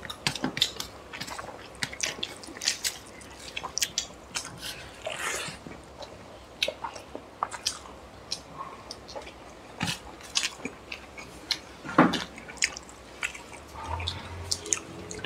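Chewing and mouth noises of two people eating chicken curry and rice with their hands, made up of many short scattered smacks and clicks. The loudest smack comes about twelve seconds in.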